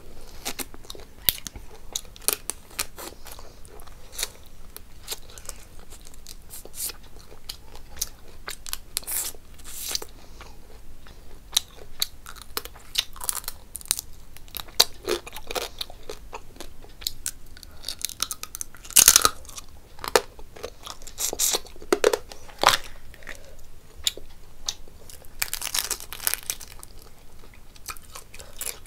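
A person chewing and crunching food close up, with a steady run of small wet clicks and a few louder crunches about two-thirds of the way through and again near the end.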